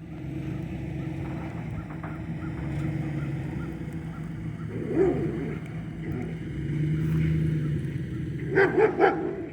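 A dog barks once about halfway through, then four times in quick succession near the end, over the steady low running of a vehicle engine.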